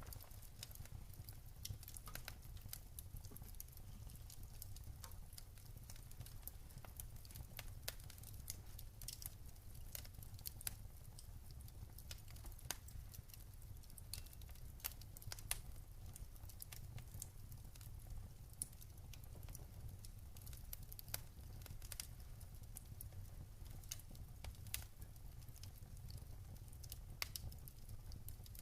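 Wood fire crackling in a fireplace: scattered, irregular sharp pops and snaps, a few of them louder, over a steady low rumble.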